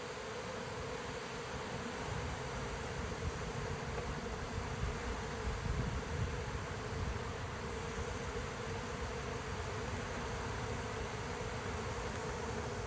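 Large honeybee swarm buzzing, a steady unbroken hum close to the microphone.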